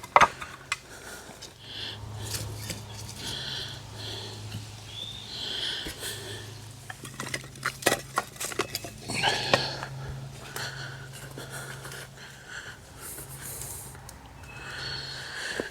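Scattered clicks and rustling as kindling and damp wood are handled to start a campfire.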